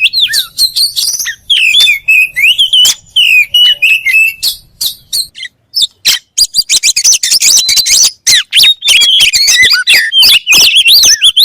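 Oriental magpie-robin (kacer) singing a fast, varied song of whistles, chirps and sharp clicks. It breaks off briefly about halfway, then resumes more densely.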